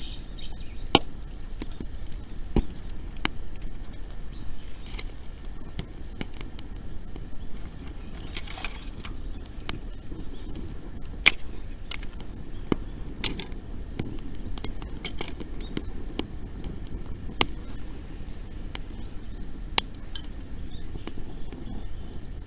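Wood campfire burning, its dry wood crackling with sharp, irregular pops about once a second over a low steady rush.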